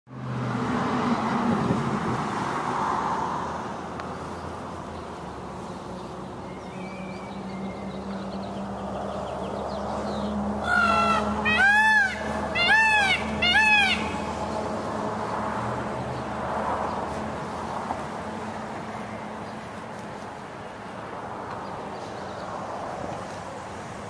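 Outdoor background with a steady low hum. About halfway through, a bird gives four loud calls about a second apart, each rising and then falling in pitch.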